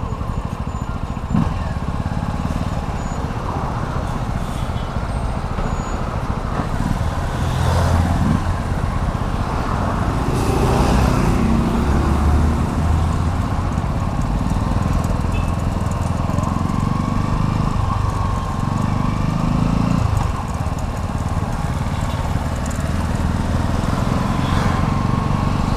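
Vehicle engine running while riding through city traffic, with steady road and wind noise; the engine note swells a few times, most strongly in the middle.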